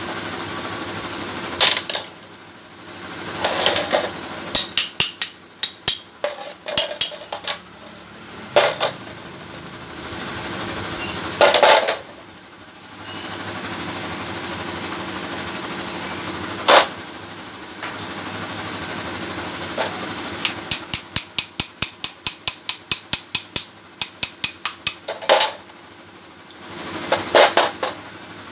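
Workshop tool work on an air impact wrench: scattered sharp metal clicks and knocks, and runs of rapid even clicks about seven a second, the longest for several seconds in the second half, over a steady machine hum.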